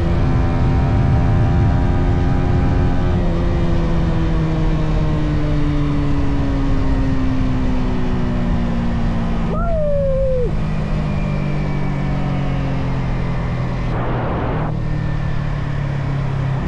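Yamaha XSR 155's single-cylinder engine through its stock exhaust, running under way: steady at first, then the engine note slowly falls as the bike slows and settles to a lower steady speed. A short high squeal slides downward about ten seconds in, over road and wind noise.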